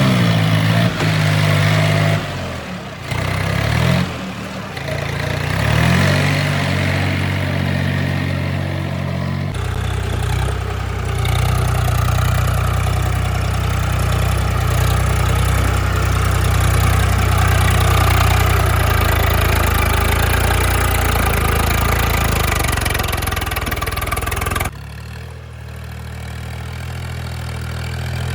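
Diesel engine of a heavy tractor or backhoe working: it revs up and down in the first ten seconds, then runs steadily and hard, and drops abruptly to a quieter steady idle near the end.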